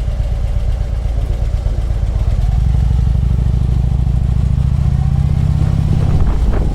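Harley-Davidson Electra Glide's V-twin engine running on the move, pulling harder with its pitch and loudness rising from about two seconds in, then easing off a little after six seconds, with a short rattle near the end.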